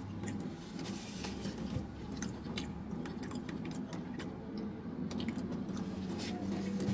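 A person biting into and chewing a mouthful of chicken sandwich, with scattered soft clicks over a steady low hum.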